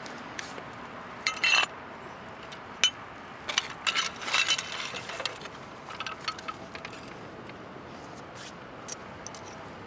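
Metal clinking and rattling in irregular clusters of sharp clicks, from the parts of a motorcycle lifting jack being handled and set in place.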